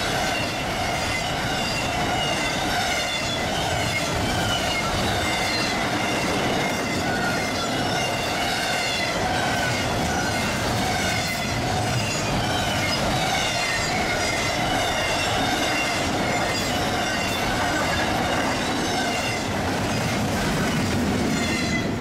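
Intermodal freight train of double-stack container well cars rolling past: a steady rumble of steel wheels on rail, with a high, wavering squeal of the wheels over it.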